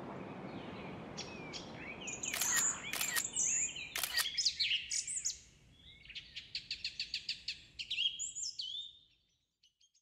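Songbirds chirping and whistling in short high, gliding calls. Between about six and eight seconds in comes a fast trill of about seven notes a second. The birdsong stops about nine seconds in.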